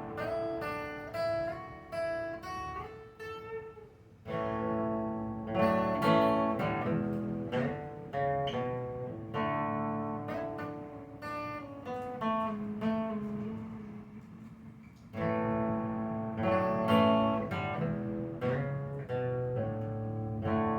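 Acoustic guitar playing an instrumental passage, picked and strummed chords with clear attacks.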